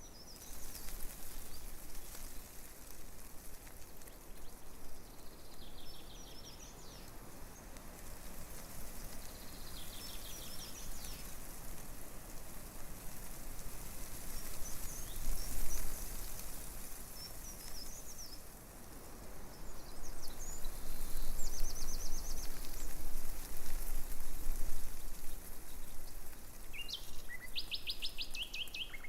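Breeze rustling through tree leaves, with small birds chirping in short rapid trills every few seconds. The wind grows louder in gusts in the second half.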